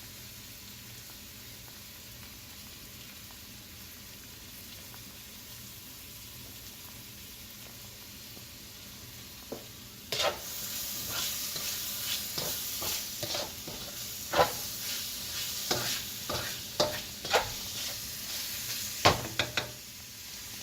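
Beaten eggs frying in olive oil in a pan: a faint steady sizzle, then about ten seconds in a louder sizzle with a spatula repeatedly scraping and knocking against the pan.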